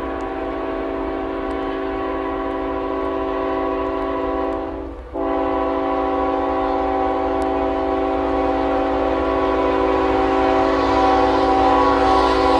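Air horn of a Norfolk Southern GE ET44AC locomotive blowing a long chord-like blast. It breaks off for a moment about five seconds in, then sounds again, getting louder as the train approaches, with rail and wheel noise coming up near the end.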